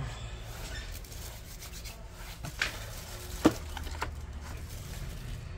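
Adhesive strips behind a laptop LCD panel being pulled free: faint rubbing and scraping with a few sharp clicks around the middle, over a steady low hum.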